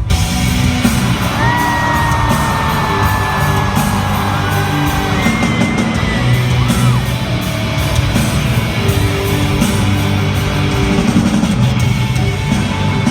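A live worship band plays loud rock-style music with guitar, while voices yell and whoop over it.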